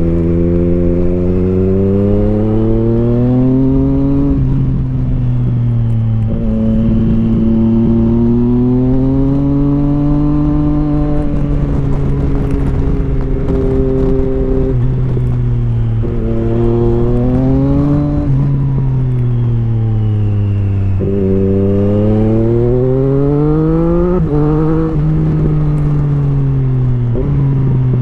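Motorcycle engine accelerating through the gears: the pitch climbs steadily, drops sharply at each upshift, and climbs again, over several pulls, with easing off in between.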